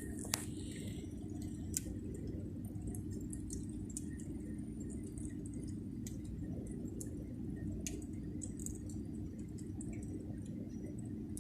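Wood fire burning in a fireplace: a steady low rush with scattered crackles and pops, two sharper pops in the first two seconds.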